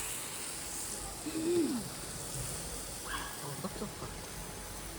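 A brief hummed vocal sound that holds its pitch and then falls, about a second and a half in, over a steady background hiss.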